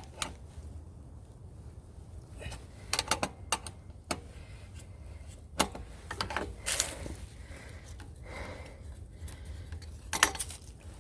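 Tools and metal fittings clinking and knocking as a well pump's pressure gauge is unscrewed, in scattered irregular clicks and taps. A steady low rumble lies underneath.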